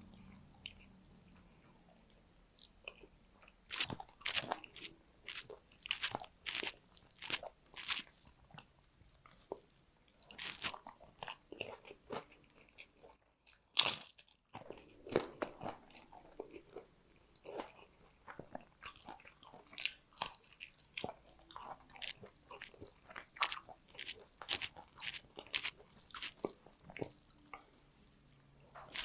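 Close-miked eating sounds: chewing with crunchy bites, many sharp irregular crackles in clusters. There is a brief cut-out near the middle with a single loud crack.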